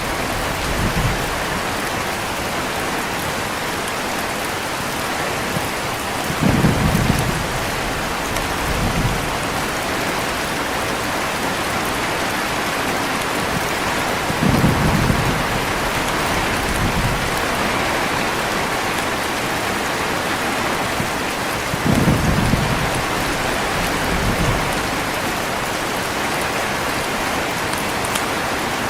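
Heavy, steady rain with short, low rolls of thunder every several seconds, five in all, the ones near 7, 15 and 22 seconds in the strongest.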